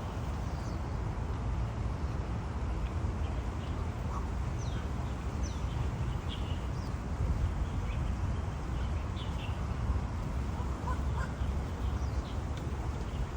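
Birds calling with scattered short chirps and quick falling notes, over a steady low rumble.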